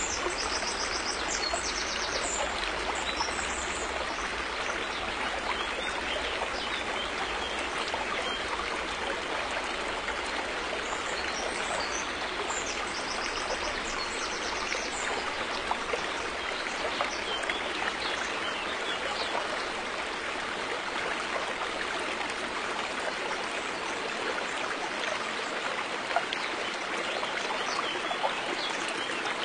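River water flowing steadily, a constant rushing babble of the stream with no pauses, and a brief high chirping twice, about a second in and near the middle.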